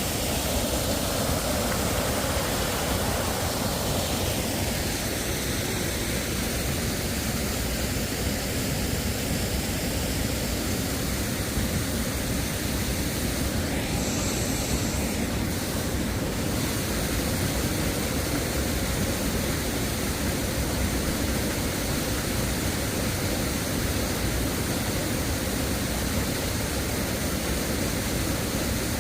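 Waterfall: water rushing and crashing in a loud, steady roar of noise, with a brief brighter hiss about halfway through.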